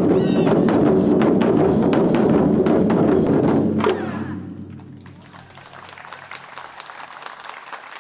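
Ensemble of wadaiko (Japanese taiko drums) playing loudly, closing on a last strike about four seconds in and dying away, followed by audience applause.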